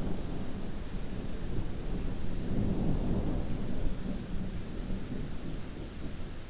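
Heavy rain with a low rolling rumble of thunder that swells about halfway through and eases toward the end.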